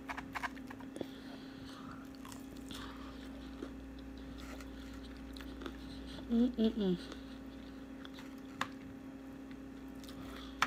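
A person biting and chewing fried tilapia, soft mouth sounds and small clicks over a steady low hum. A brief murmur of voice comes about six seconds in.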